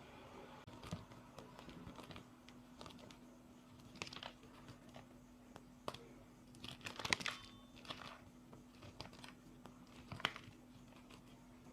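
Hard reformed gym chalk being crushed and crumbled: scattered sharp crunches and crackles at an irregular pace, with a dense, louder cluster about seven seconds in.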